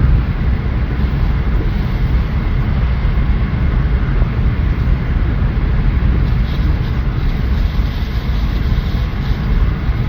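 Steady low rumble and road noise of a moving vehicle, unbroken throughout.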